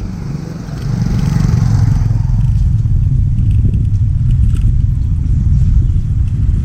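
Low, heavy road-vehicle rumble that grows louder about a second in, with faint clatter over it.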